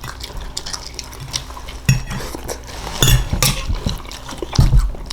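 Close-miked eating of cooked green beans: a fork clinking and scraping against the plate, with chewing, and louder clusters of clicks about two, three and nearly five seconds in.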